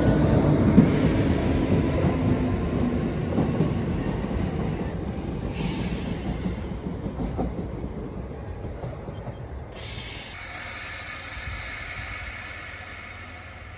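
A train running on the rails and receding, its rumble dying away steadily. A short high-pitched sound comes about five seconds in, and a longer one from about ten seconds in.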